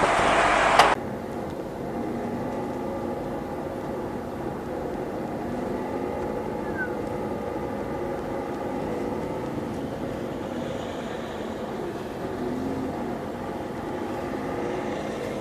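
Loud noise that cuts off suddenly about a second in, then a vehicle engine running steadily.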